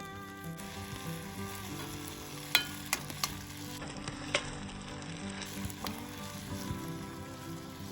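Food sizzling as it fries in a pan, with a couple of sharp taps about two and a half and four and a half seconds in.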